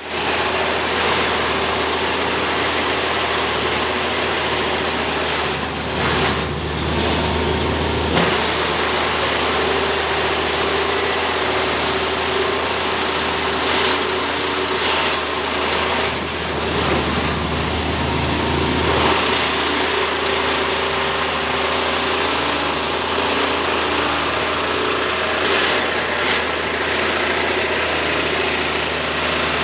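An engine running steadily under a constant rushing noise, with a few brief louder swells.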